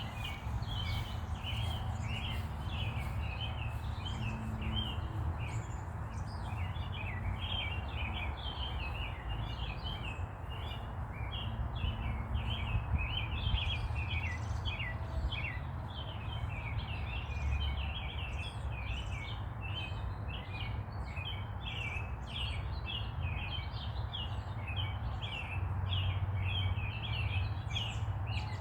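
Many small birds chirping continuously, a dense run of short, high chirps, over a steady low rumble.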